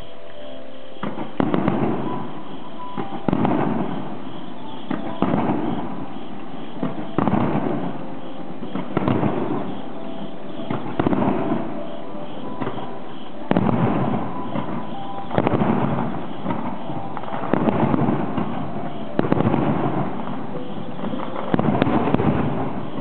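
Aerial fireworks shells bursting one after another, about every two seconds, each bang trailing off into a crackling fade.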